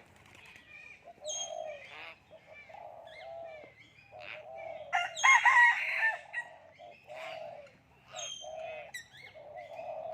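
Common hill myna calling: a string of short, arched calls with a few sharp high notes, and one loud harsh call about five seconds in.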